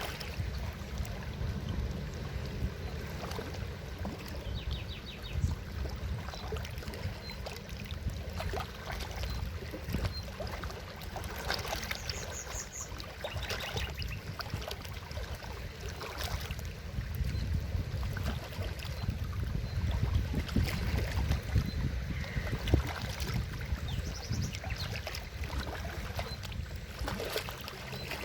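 Forest river rushing steadily, with a deep rumble underneath and a few short, high chirping trills.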